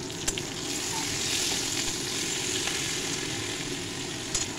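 Potato and ivy gourd pieces sizzling in hot oil in a metal kadai while a metal spatula stirs them, with a couple of sharp knocks of the spatula against the pan.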